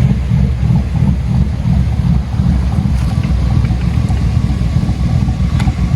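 A V8 engine idling with a steady low rumble, mixed with wind buffeting the microphone.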